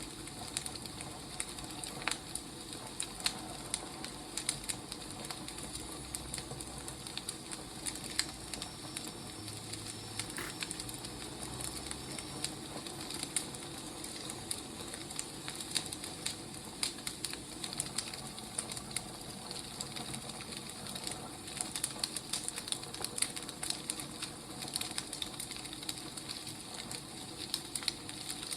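Wood fire crackling: irregular sharp snaps over a steady soft hiss.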